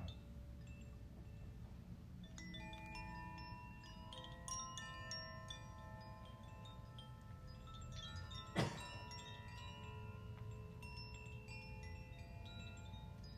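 Chimes ringing softly, many bright tones struck one after another and left to ring and overlap. A single sharp knock or click sounds about two-thirds of the way through.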